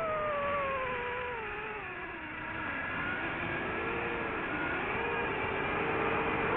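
FPV racing drone's electric motors whining over a steady rushing noise. The pitch sinks for the first two or three seconds, then rises again and wavers as the throttle changes.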